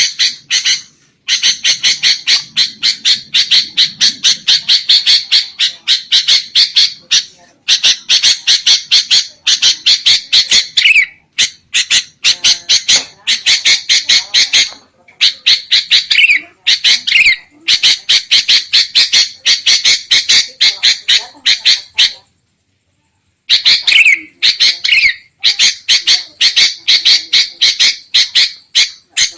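Sooty-headed bulbuls chattering in agitation: loud, rapid runs of harsh repeated notes in bursts of a few seconds, broken by short pauses. It is the noisy excited calling used as a lure to draw in wild bulbuls.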